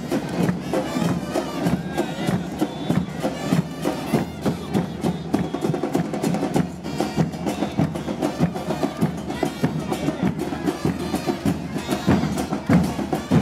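Carnival troupe music: loud, dense, fast drumming runs throughout, with pitched sounds over it.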